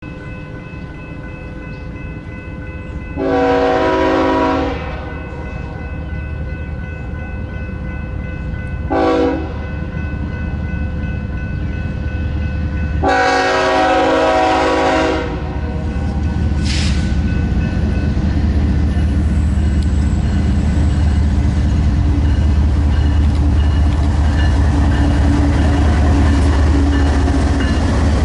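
Locomotive air horn sounding three blasts: long, short, then long. A steady low rumble of the approaching train then grows louder.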